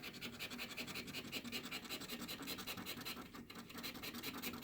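A coin or scraper scratching the latex coating off a lottery scratch-off ticket in quick back-and-forth strokes, about eight to ten a second, with a short break a little past three seconds in.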